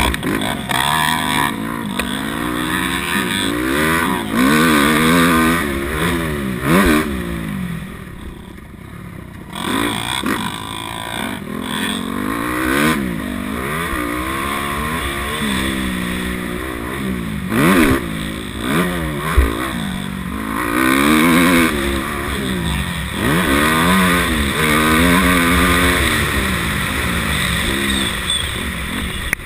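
250 cc dirt bike engine being ridden hard, its pitch climbing and dropping again and again with throttle and gear changes. It eases off briefly about eight seconds in.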